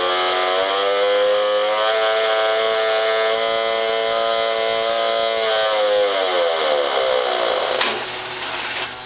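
The Zazoom motor-sound noisemaker on a 1965 Marx Big Job toy dump truck is running loud, making a buzzing engine imitation. Its pitch rises about two seconds in, holds, then sinks away towards the end. A sharp click comes near the end, after which a quieter, lower hum of the toy's small motor goes on.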